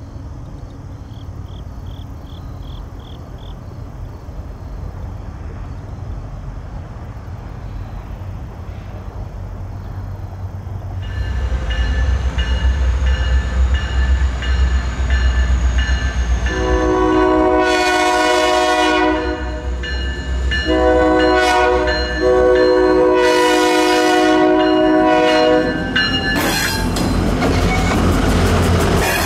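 After about eleven seconds of quieter steady background noise, the low rumble of an approaching diesel freight led by KLW SE32C locomotive #3200 comes in suddenly. Its multi-chime air horn sounds two long blasts. The locomotives then pass close, engines running, with rapid clicking of the wheels over the rail joints.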